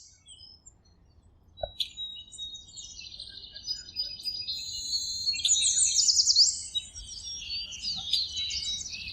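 Birds chirping and singing together, many overlapping high chirps and quick trills. Faint at first, building to its loudest about halfway through, then easing a little.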